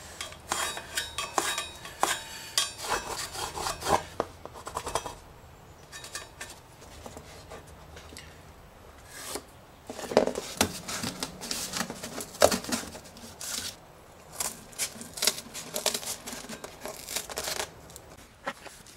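Cardboard being handled and cut into a template shape: scattered rustles, scrapes and light clicks. These thin out for a few seconds in the middle, with a couple of sharper knocks about ten and twelve seconds in.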